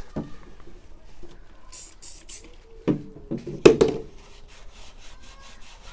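Hands working on a van's side step: two short hisses a little under two seconds in, then two sharp knocks about a second apart, the second the loudest, with light rubbing and handling noise between.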